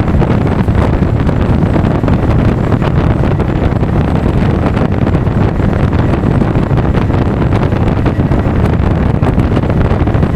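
Steady, loud wind rush over an action camera's microphone on a moving Honda Forza 350 scooter, with the ride's low road and engine noise mixed in.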